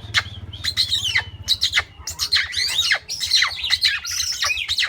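Oriental magpie-robin (kacer) singing loudly in a rapid run of sharp, sweeping whistles and harsh notes. This is the agitated song of a bird in breeding condition.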